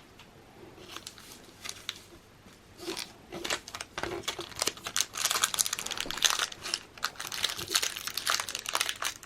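Foil wrapper of a Pokémon booster pack crinkling as it is handled and pulled at to tear it open, with the pack hard to open. Mostly quiet at first, the crinkling starts about three seconds in and grows busier.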